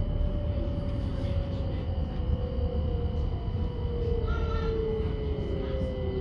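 Electric commuter train heard from inside the passenger car: a steady rumble of the wheels on the rails with the traction motors' whine gliding slowly down in pitch as the train slows. A brief high tone sounds about four seconds in.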